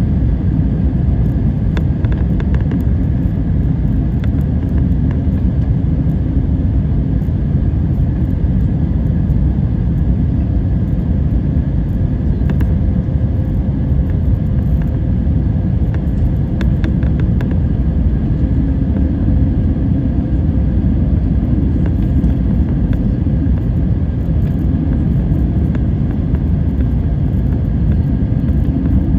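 Airliner noise: a loud, steady low rumble with faint steady tones over it, unchanging throughout.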